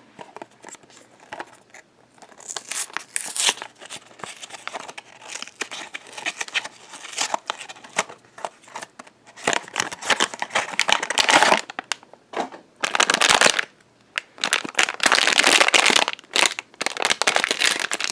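Blind-box packaging being opened by hand, with the wrapper crinkling and tearing in irregular bursts that grow louder and denser in the second half.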